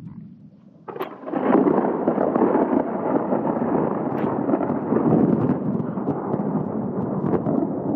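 Thunder from a close lightning strike: a sudden crack about a second in, then a loud rolling rumble that goes on to the end.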